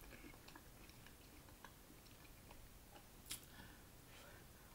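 Faint chewing and small mouth clicks while eating soup, with one sharper click about three seconds in.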